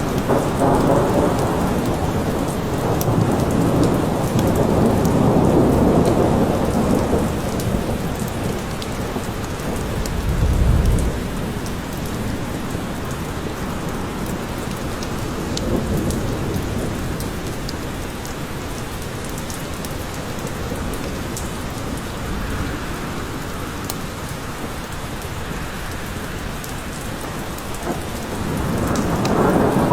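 Steady rain falling in a forest, with rolling thunder. The rumble swells over the first several seconds, gives a short deep boom about ten seconds in, and builds again near the end.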